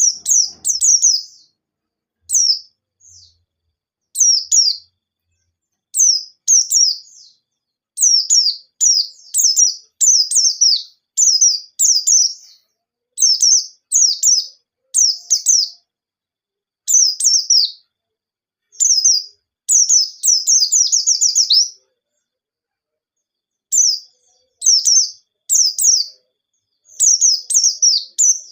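White-eye (pleci) singing a loud, fast 'nembak' song: short phrases of quick, high, down-slurred notes with brief pauses, and a longer rapid run about two-thirds of the way through.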